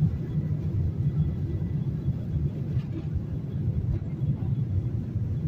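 Steady low rumble inside the passenger cabin of a Boeing 737-800, the noise of the jet's engines and airframe heard from a seat, with a faint high steady whine above it.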